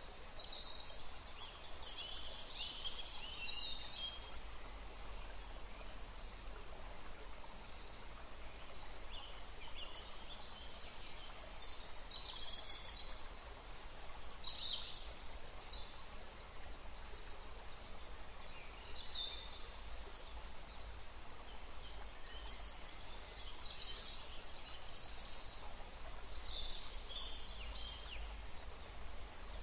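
Birds chirping in scattered clusters of short, high calls over a steady background hiss and low hum.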